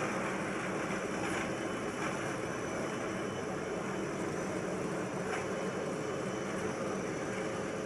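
Airliner cabin noise during the climb just after takeoff: a steady rush of engines and airflow with a faint steady hum.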